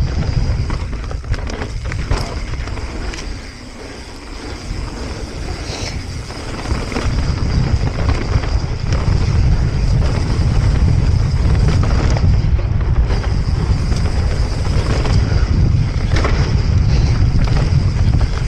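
Wind buffeting a small action camera's microphone while riding a mountain bike on a dirt trail, with scattered knocks and rattles from the bike and tyres. The wind rumble dips a few seconds in, then grows louder about seven seconds in and stays strong.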